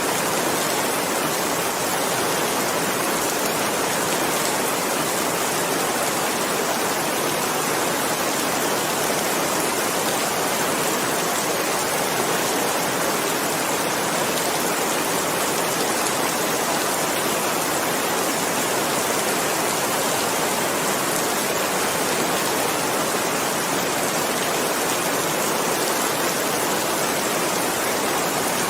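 Steady rain falling, a dense even hiss of drops with no distinct individual impacts or changes.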